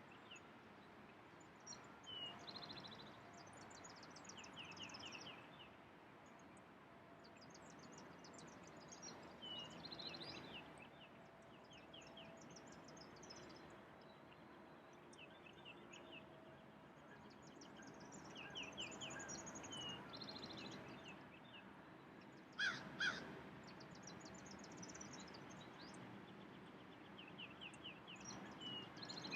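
Several songbirds singing, with short high trills and chirps repeating throughout, over a faint outdoor background. About three-quarters of the way through comes a louder pair of harsh calls.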